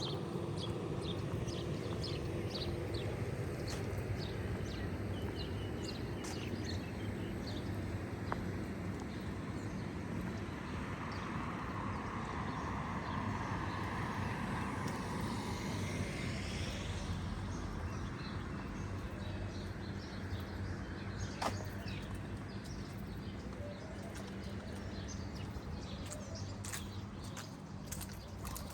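Street ambience: a steady low traffic hum with small birds chirping over the first few seconds, and a vehicle passing by in the middle, swelling and fading. A few sharp clicks come near the end.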